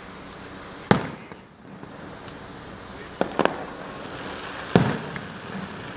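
Fireworks going off: a sharp bang about a second in, a quick pair of cracks a little past the middle, and another bang near the end, over a steady background hiss.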